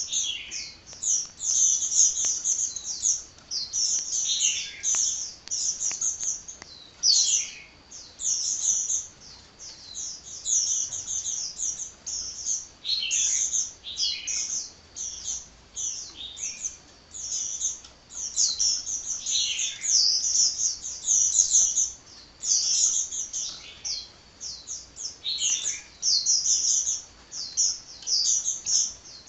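A sunbird singing without pause: a fast, unbroken stream of high-pitched chirps and twitters, with now and then a note sweeping downward.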